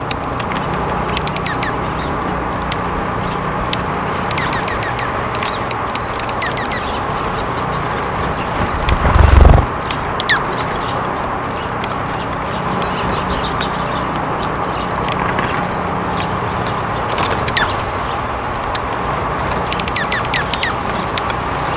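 Wild birds calling with many short, high chirps over a steady outdoor hiss, with a loud low thump about nine seconds in.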